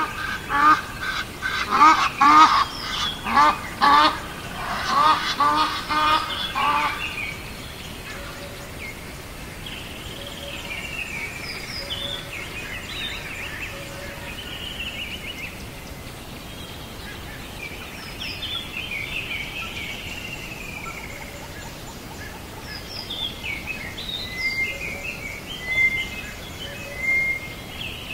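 Birds calling: a run of loud, repeated calls, about two a second, for the first seven seconds or so, then softer chirping and short high twitters.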